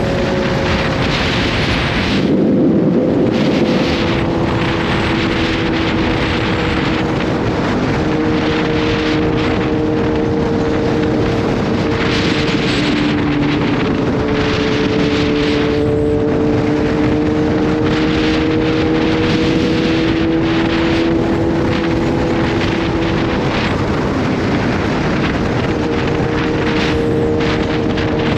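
Kawasaki Z H2's supercharged inline-four running at a steady cruise, its pitch drifting only a little, under wind rushing over the microphone. There is a brief louder spell about two seconds in.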